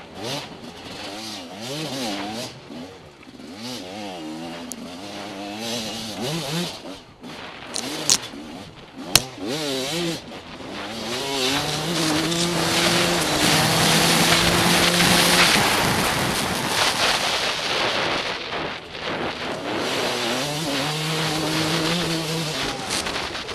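TM Racing enduro motorcycle engine revving up and down hard through tight turns, with two sharp knocks about eight and nine seconds in. It is then held at steady high revs along the open stretches, with wind rushing over the camera microphone.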